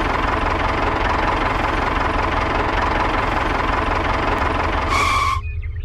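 Steady engine running sound of a mini tractor, idling evenly with a low rumble. About five seconds in, its higher part cuts off suddenly and only a quieter low rumble goes on.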